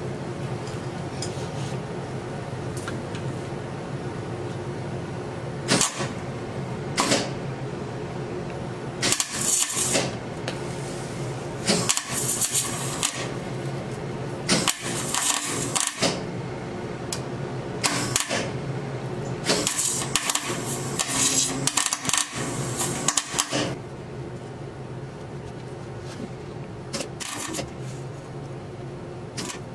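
Arc welding on the steel differential center, a dozen or so short crackling bursts of about a second each through the middle stretch, over a steady electrical hum. The carrier is being welded solid to lock the rear axle.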